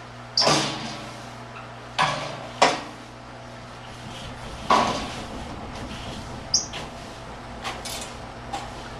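A few sharp knocks and clatters of household objects being handled during cleaning, a second or two apart, over a steady low hum.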